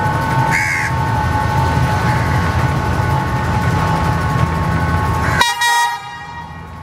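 Diesel train running with a steady low rumble and a steady whine, then a short, loud horn blast about five and a half seconds in, after which the low rumble drops away.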